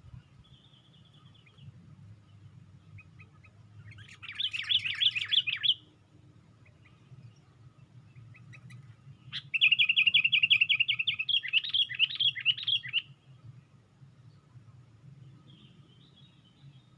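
Sooty-headed bulbul (kutilang) calling in two bursts of fast, chattering trills. The first comes about four seconds in and lasts under two seconds. The second, a few seconds later, is an even rapid trill that breaks into separate warbled notes. Faint short chirps fall between the bursts over a low steady hum.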